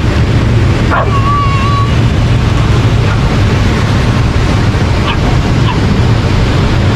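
Steady loud surf and wind noise on the microphone, with a dog's short whine held on one high pitch for about a second, about a second in, and two fainter short yips around five seconds in.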